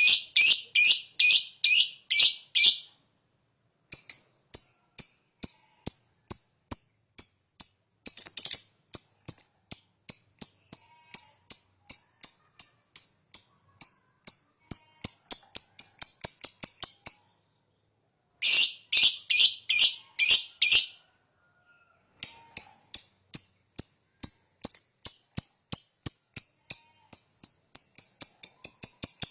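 Lovebird singing its long chattering 'ngekek' song: runs of sharp, high-pitched repeated notes that quicken toward the end of each run, broken by short pauses.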